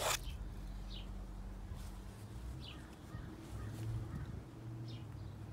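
A few faint, short bird chirps, spaced well apart, over a low steady background hum.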